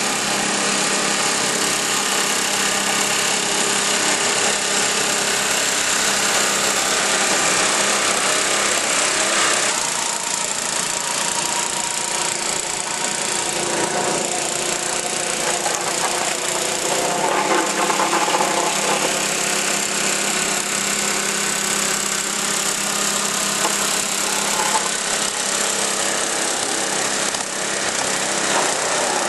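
Craftsman snow blower's small engine running steadily as it warms up after a cold start.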